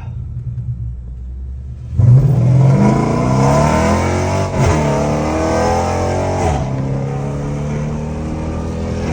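Dodge Charger R/T's V8 engine under hard acceleration, heard from inside the car. It runs steadily at first, then goes to full throttle about two seconds in. The revs climb through two upshifts, near the middle and about two-thirds of the way through, and then hold steady at speed.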